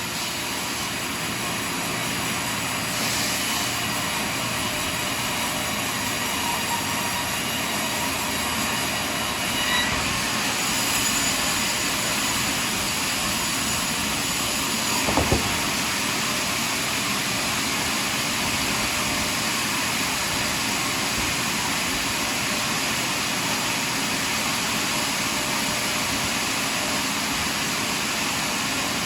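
Portable sawmill running steadily as it cuts through a large log, with one short knock about halfway through.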